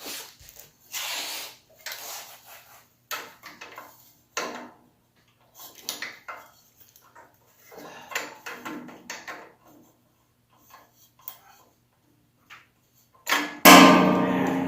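Hand work with tools and small parts: an irregular run of knocks, clinks and scraping rubs with short pauses between them. A louder sound with a steady pitch starts near the end.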